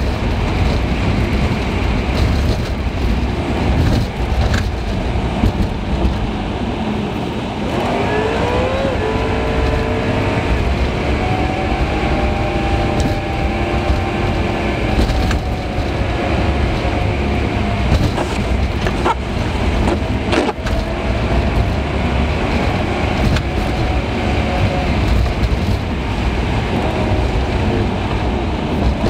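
Car driving noise heard from a dash cam inside the car, sped up about three times: a steady rumble of engine and road. The engine note rises about a third of the way in and again near the end as the car speeds up.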